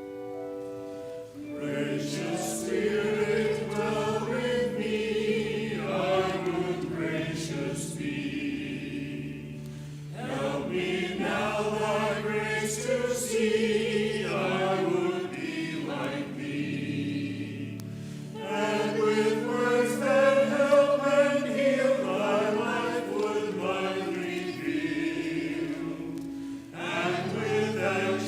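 Many voices singing a hymn in long phrases over sustained organ chords. The singing comes in about a second and a half in, after the held chords, and pauses briefly between phrases.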